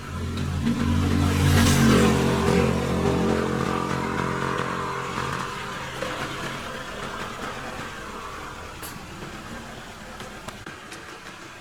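A motor vehicle's engine running, swelling to its loudest about two seconds in and then fading slowly away.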